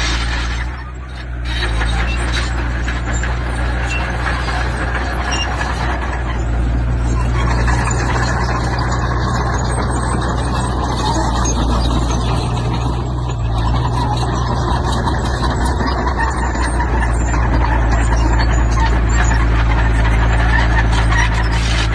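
Heavy diesel earthmoving machinery running steadily under load, with a brief dip in level about a second in.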